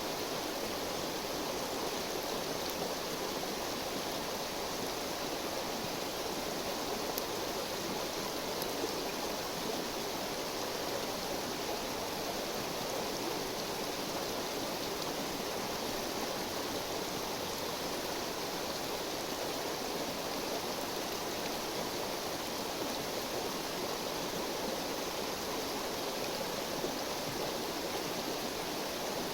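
River water flowing steadily over stones, a constant rushing murmur.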